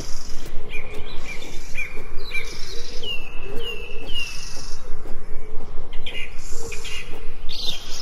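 Forest birds chirping and calling, with repeated short calls and a run of three falling notes about three seconds in.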